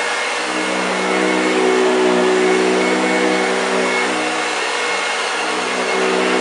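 1965 Hoover Junior 1334A upright vacuum cleaner running steadily, a constant motor hum over a rushing whirr, its level rising and falling slightly.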